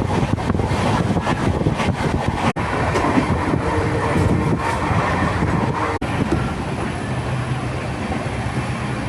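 Indian Railways train running on the track: a continuous loud rumble with irregular rattles and knocks. The sound cuts out sharply for a moment twice, and a steady low hum comes in during the later part.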